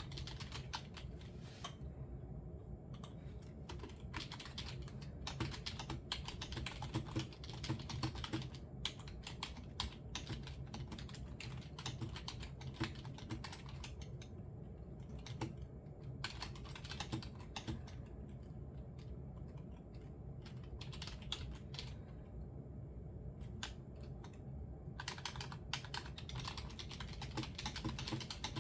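Typing on a computer keyboard: quick runs of key clicks broken by short pauses, over a low steady hum.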